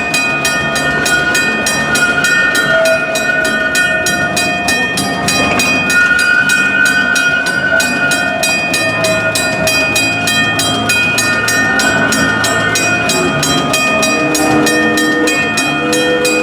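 Steam train of the Six Flags railroad running, with a steady beat about four times a second and several steady tones held over it.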